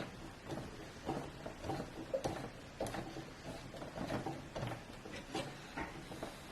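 Faint, irregular small clicks, taps and scrapes of a CPU cooler and its mounting hardware being handled and fastened onto the motherboard.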